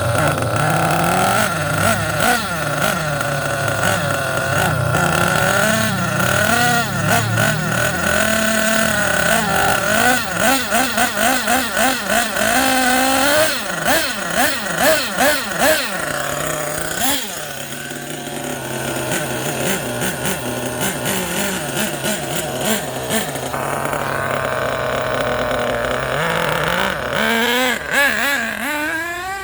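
Small .28 nitro glow two-stroke model engine running in a Thunder Tiger S2, its pitch wavering as the throttle is worked. It is blipped rapidly around the middle, settles to a lower steady idle, then revs up near the end.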